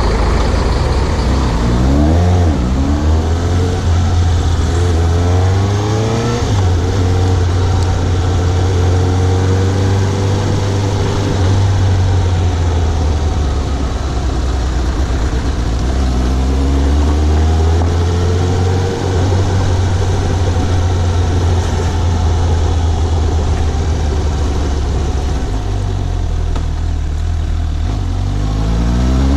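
Suzuki GSX750 motorcycle's inline-four engine pulling away and accelerating through the gears several times, its pitch rising in repeated climbs over a heavy low rumble.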